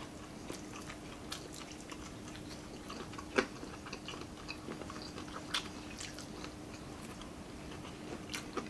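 Close-up chewing and biting of crispy fried chicken, with scattered small crunches and wet mouth clicks and one sharp, louder crunch about three and a half seconds in. A faint steady hum runs underneath.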